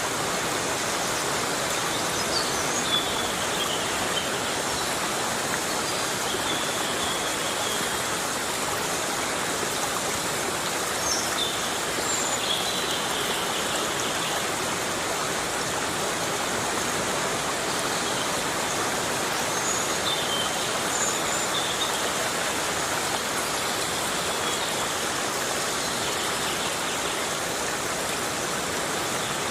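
Heavy rain falling steadily in a forest, an even, dense hiss, with faint short high-pitched notes now and then.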